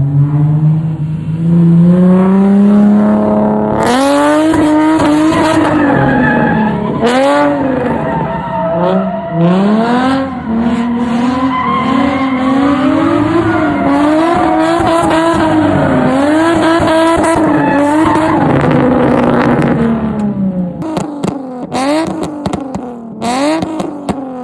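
A drift car's engine revving hard, climbing and then rising and falling over and over as the car is held sideways, with tyres squealing and skidding. It drops off near the end.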